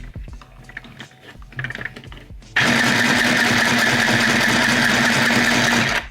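Singer EZ toy starter sewing machine: a few soft handling clicks, then about two and a half seconds in its small motor runs steadily at full speed with a buzzing hum as it stitches, stopping abruptly just before the end.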